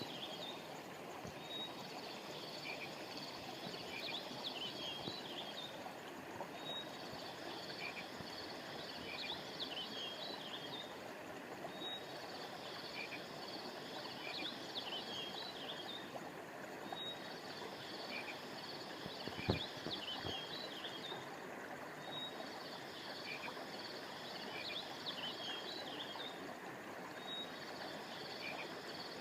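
River water flowing steadily, with high chirping calls over it in a pattern that repeats about every five seconds, like a looped recording. A single low thump comes about twenty seconds in.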